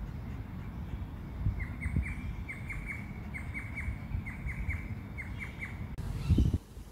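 A bird calling in a rapid series of short falling notes, grouped in quick runs of three or four, for several seconds over a low rumble of wind on the microphone. Near the end the calls stop abruptly and there is a brief low thump.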